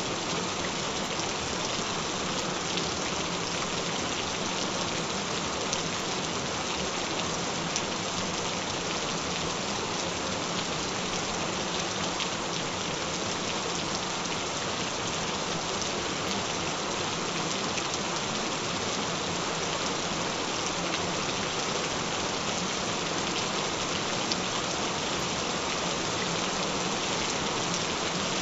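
Gentle rain falling steadily: an even hiss with scattered drop ticks.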